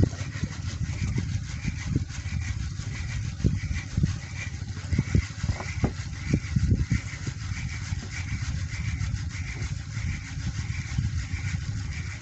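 Wind buffeting the microphone at sea, with irregular thumps from the boat and water, and a faint high chirp repeating evenly about two to three times a second.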